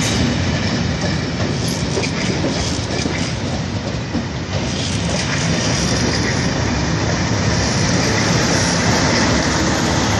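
Train passing close at speed: test coaches clattering over the rail joints. The sound changes about halfway through, and a Class 37 diesel locomotive runs by near the end.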